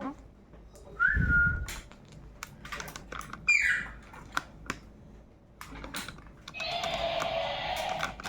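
Pet parrot giving a short whistle about a second in and a falling, whistle-like call at about three and a half seconds, among scattered light clicks. Near the end a steady sound with a constant tone and hiss comes in.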